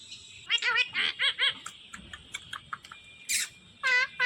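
Pet green parrot calling: a quick run of short chirps, then scattered clicks, a harsh screech about three seconds in and a longer pitched call near the end.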